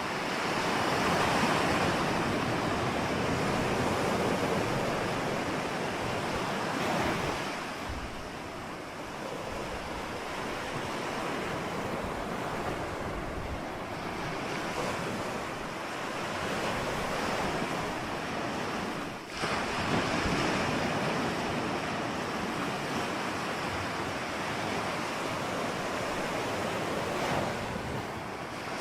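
Ocean surf washing ashore in a continuous hiss that swells and eases slowly as waves break and draw back, with a low rumble of wind on the microphone. About two-thirds of the way through it drops away briefly, then surges up again.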